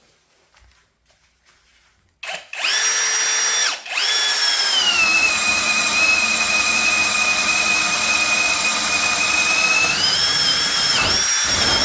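Brushless cordless drill boring with a 1-inch Diablo bit. The motor spins up about two seconds in and stops briefly. It then starts again, and its whine drops in pitch under load for about five seconds. Near the end the whine rises again as the load comes off.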